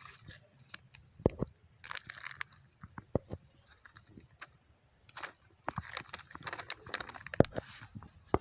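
Plastic litter crinkling and crunching as it is picked up and handled, in irregular rustling bursts with sharp clicks, busiest in the second half.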